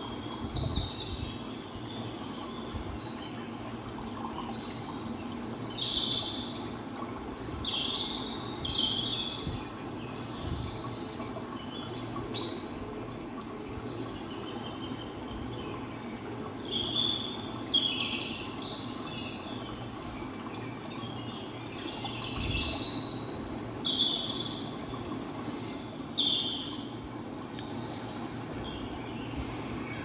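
Birds chirping: short falling chirps every second or two over a steady low background noise.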